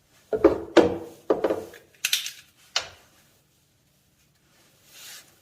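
Hands handling brass pipe fittings and a roll of Teflon tape: several knocks and rubbing in the first second and a half, a short scratchy rasp about two seconds in, and a sharp click near three seconds, then a soft hiss near the end.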